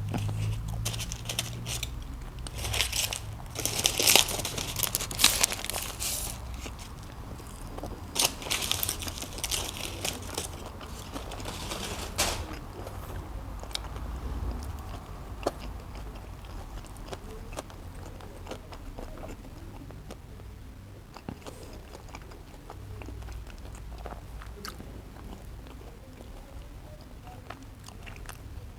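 Close-miked bites into a cheeseburger and chewing, with crisp crunching in clusters over the first dozen seconds, then softer, wetter chewing with scattered clicks.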